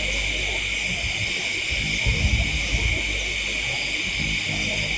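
Steady chorus of night insects such as crickets, with low background music droning beneath it.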